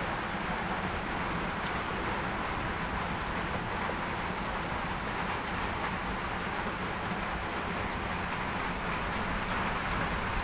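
Rain falling steadily, an even noise with no break.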